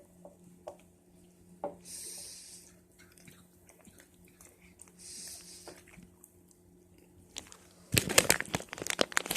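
Faint crunching and chewing of potato chips with small scattered clicks, then from about 8 s in a potato chip bag crinkling loudly.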